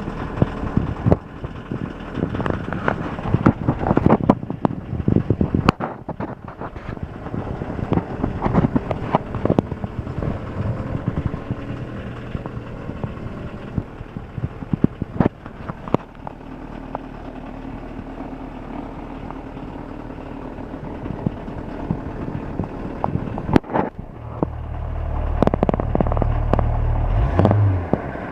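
1982 VW Rabbit pickup's diesel engine idling from a cold start, clattering with many sharp ticks, and shaking a little as diesels do when cold. A louder low rumble comes in for a few seconds near the end.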